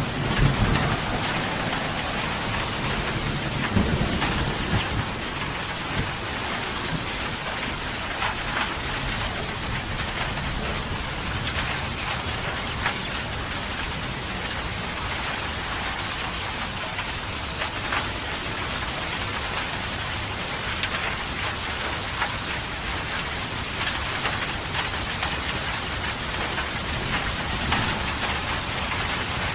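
Steady rain falling, with low thunder rumbling through the first few seconds before it fades, leaving the rain alone.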